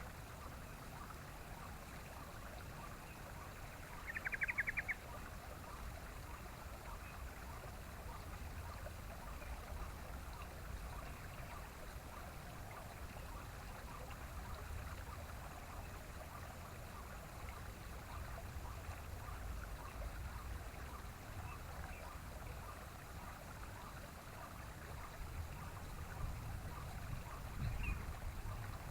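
Steady outdoor background hiss, with one short, fast rattling bird call of about eight quick notes about four seconds in.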